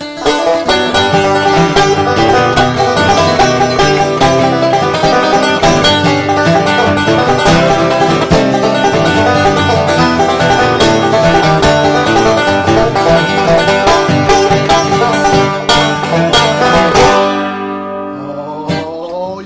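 Banjo and acoustic guitar picking a fast bluegrass-style instrumental, ending on a final chord that rings and fades near the end.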